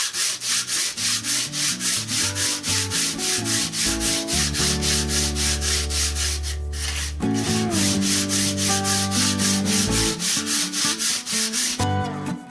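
A metal plate being rubbed back and forth on an abrasive sheet in quick, even strokes to take a slight bow out of it, with a short pause about two-thirds of the way through. Background music with held notes plays underneath.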